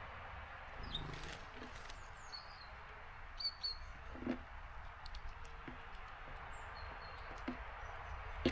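Steady rain hiss with a few short, high small-bird chirps. Several brief knocks from birds on the feeder, the loudest about four seconds in.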